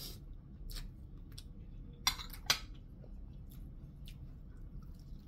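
Close-up chewing of crispy fried lumpia (spring rolls), with irregular sharp crunches and crackles of the fried wrapper; the two loudest crunches come about two seconds in.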